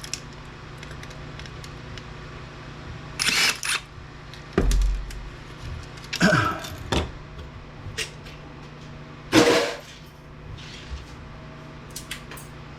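Cordless drill/driver run in short bursts, three times, one winding down with a falling pitch, unscrewing an APC UPS control board, with a dull thump about four and a half seconds in over a steady low hum.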